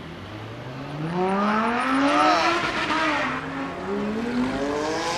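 Dodge Viper's V10 engine revving hard as the car accelerates away. The pitch climbs through a gear, drops at an upshift about three seconds in, then climbs again in the next gear.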